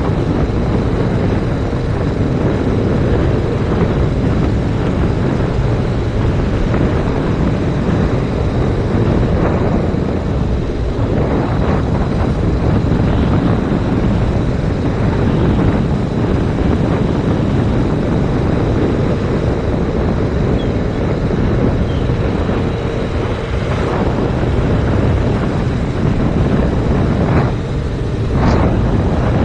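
Heavy, steady wind rush on an action camera's microphone while riding a 2019 Yamaha MT-07, with its parallel-twin engine running underneath.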